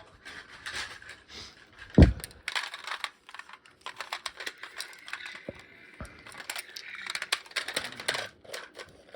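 Small plastic toy trucks being handled, giving scattered clicks and rattles, with one heavy thump about two seconds in and a lighter knock about six seconds in.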